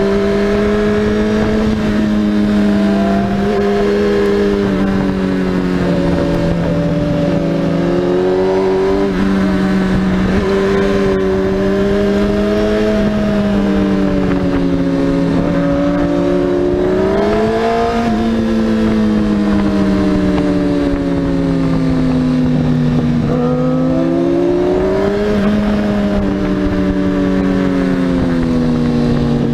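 Sport motorcycle engine running hard under way, its pitch rising and falling again and again as the throttle is rolled on and off through the bends. Wind rushes over the microphone throughout.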